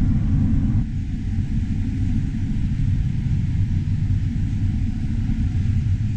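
Combine harvester running while harvesting corn, a steady low rumble of engine and threshing machinery.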